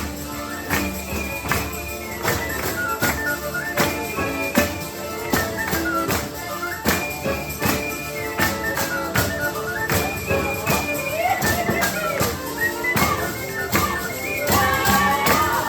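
Folk music played live, a tambourine striking a steady, quick beat under a melody line.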